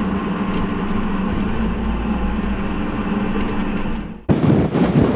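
Case IH 620 QuadTrac's diesel engine running steadily under way, heard from inside the cab. About four seconds in it cuts off abruptly and gives way to wind buffeting the microphone.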